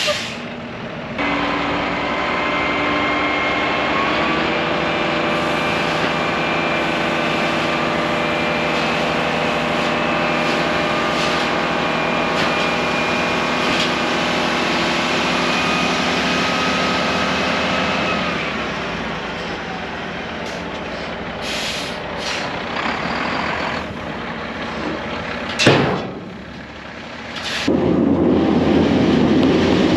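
Truck engine revving up and holding high, steady revs, then dropping back about eighteen seconds in; a few sharp knocks follow, and near the end a loud rushing rumble sets in.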